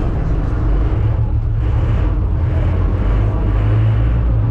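Steady low engine rumble, loud and even.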